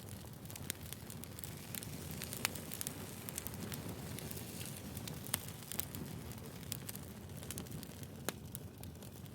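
Wood fire burning: a steady low rumble with scattered, irregular sharp crackles and pops of burning firewood.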